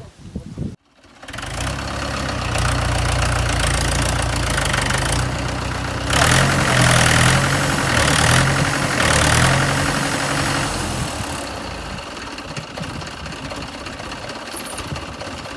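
Tractor diesel engine running close by. It works harder with a louder, rougher note from about 6 to 10 seconds in, then eases back to a lower, steadier run.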